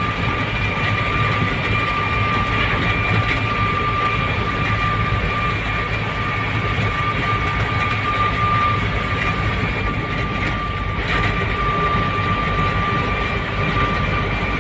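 Moving truck's engine and road noise: a steady deep rumble with a constant high whine over it.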